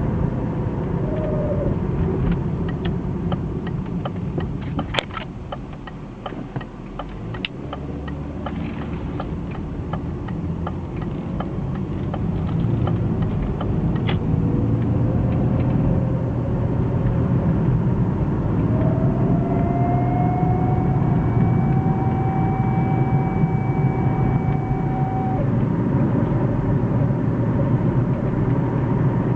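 BMW E36 320i automatic driving, with a steady road and drivetrain rumble that eases off around six seconds in and builds again as it picks up speed. About two-thirds of the way through, a thin whine rises, holds for several seconds and cuts off suddenly. The owner traced this cold-driving whine to a failing driveshaft center bearing.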